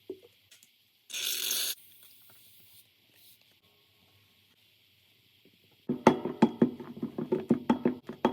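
Slime being squeezed and played with by hand: a short hissing squish about a second in, then from about six seconds a dense run of rapid loud pops and clicks as air pockets in the slime burst.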